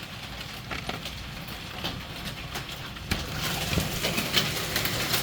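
Hailstones pelting down: a dense, irregular patter of hard clicks and knocks on hard surfaces over the hiss of the storm. It grows heavier and louder about three seconds in.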